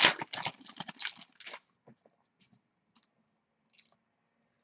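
Trading card pack being handled, with crinkling and crackling for about the first second and a half, then only a few faint clicks.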